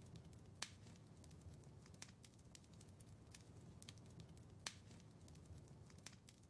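Wood fire in a fireplace crackling quietly: scattered small snaps, with two sharper pops, one about half a second in and another about four and a half seconds in, over a low steady rumble.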